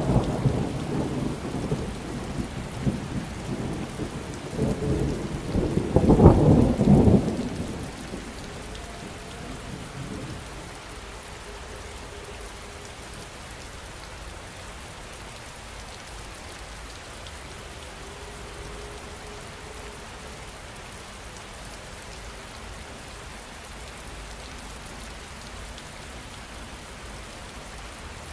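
Thunderstorm: heavy rain falling steadily, with rolling thunder in the first seven seconds that peaks in a loud crack about six seconds in and then dies away, leaving only the rain.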